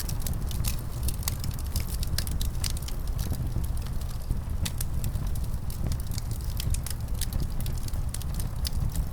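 Wood fire crackling, with frequent sharp pops and snaps, over a steady low rumble of wind.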